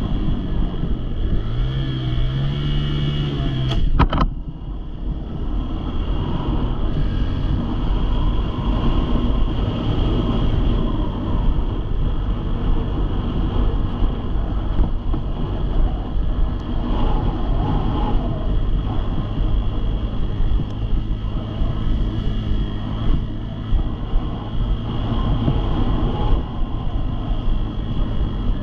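Small dirt bike engine running: about a second in it revs up, rising in pitch, then a sharp click near four seconds in, after which a steady low rumble goes on.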